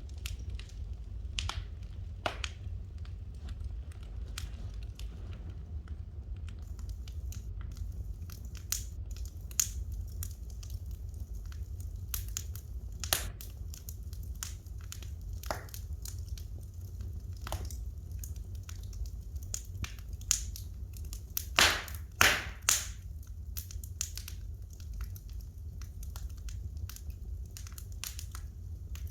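Wood fire crackling in a fireplace: irregular sharp pops and snaps over a steady low rumble, with the loudest few pops close together about three-quarters of the way through.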